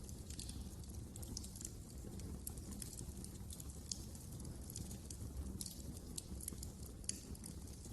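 Wood fire burning in a fireplace: a steady low rumble of the flames with irregular sharp crackles and pops, two of them louder, a little before four seconds and about seven seconds in.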